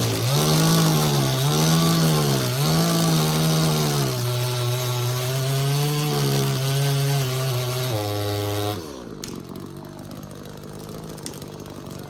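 Chainsaw cutting wood, its engine speed dipping and recovering three times under load, then running steadier. About eight seconds in it drops to idle and shuts off, the pitch falling away.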